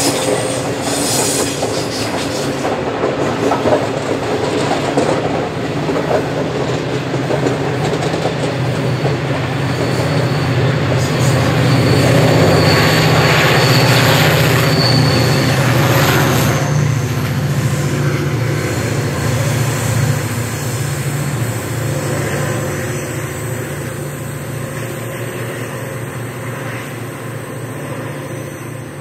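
Loaded coal wagons roll past with wheel clatter. Then the two rear banker diesel locomotives, CLF and CLP class streamliners pushing the train, go by with their engines loudest about halfway through and a thin wheel squeal. The sound then fades as the train draws away.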